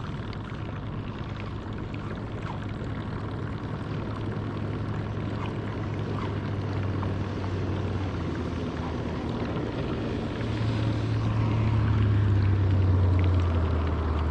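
Outboard boat motor running with a steady low hum that grows louder in the second half, its pitch rising and then sliding lower near the end.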